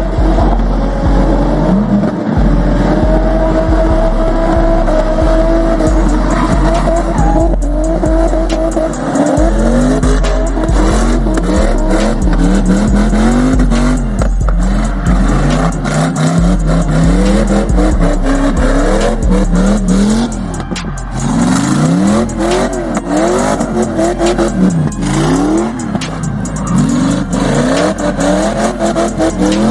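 A car burnout: the engine revs up and down hard and repeatedly while the tyres squeal, over loud music with a heavy stepped bass.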